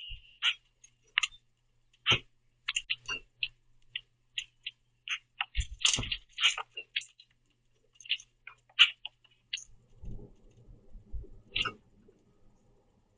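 Common grackles at a feeder full of sunflower seeds: an irregular run of short, sharp clicks and chack notes from pecking and calling, with a low thud about six seconds in and a low rustling in the last few seconds.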